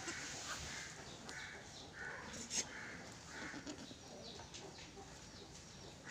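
A run of short, hoarse bird calls, repeated about every half second and thinning out after about four seconds. A sharp click about two and a half seconds in is the loudest sound.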